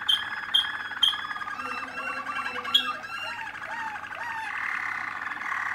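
Young Malinois (Waterslager) canaries singing: sharp repeated notes about twice a second at first, then rolling trills and rising-and-falling glides.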